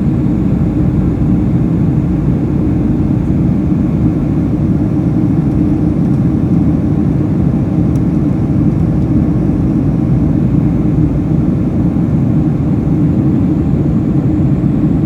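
Steady low noise of engines and airflow inside the cabin of a Boeing 747-400 powered by four Pratt & Whitney PW4056 turbofans, even and unchanging throughout.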